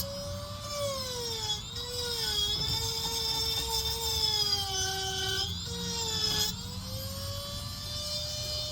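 High-speed rotary carving tool whining as it cuts into wood, its pitch sagging under load and climbing back up as the pressure eases, with a short dip about five and a half seconds in.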